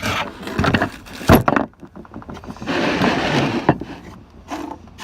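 Objects being handled and moved: a run of knocks and scrapes, with one sharp bang about a second in and a longer scrape around the middle.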